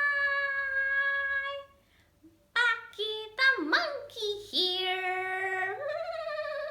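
A high-pitched, child-like puppet character voice making wordless sung sounds. A long held note fades out, and after a short pause come several calls that swoop up and down in pitch, ending on a steadier held tone.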